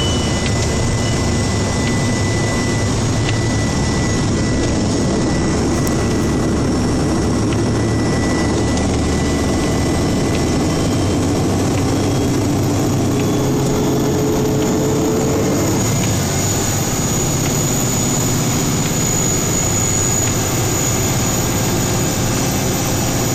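Snowplow truck's engine running steadily with road and plow noise, heard from inside the cab.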